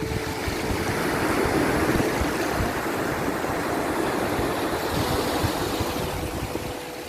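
Ocean waves washing in a steady surge, swelling about a second in and easing off toward the end, with faint held notes of a soft melody underneath.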